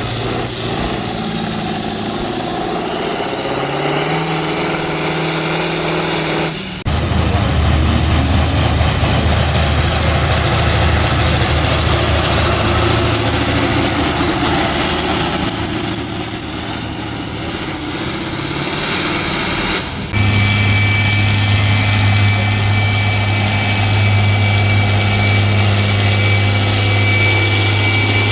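Farm tractor diesel engines running steadily, with a thin high whine that climbs in pitch. The engine sound changes abruptly twice, about 7 and 20 seconds in.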